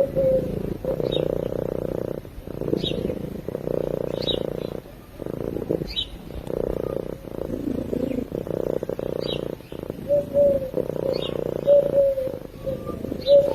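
Domestic cat purring in a steady rhythm, each purr lasting about a second with a short break for breath between.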